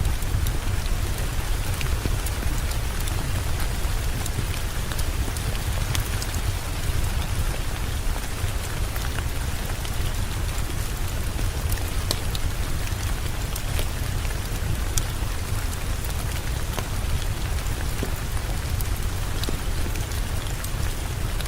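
Steady heavy rain, an even hiss with a low rumble underneath and scattered sharp clicks from the drops.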